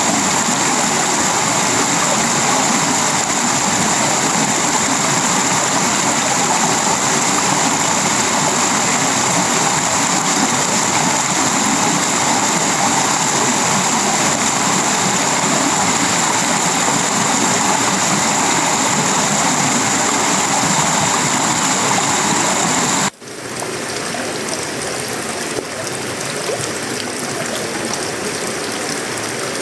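Steady tropical rain falling on sheet-metal roofing, wood and leaves, with a thin high-pitched whine running over it. About two-thirds of the way through, the sound drops out for an instant and the whine is gone; the rain then carries on a little quieter.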